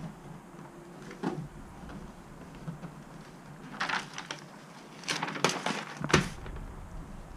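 Scattered knocks and handling noises as sheets of Killmat sound-deadening mat are fitted against the van's sheet-metal panels. There is one knock early, a short flurry about four seconds in, and a denser run of knocks near the end, the loudest of them.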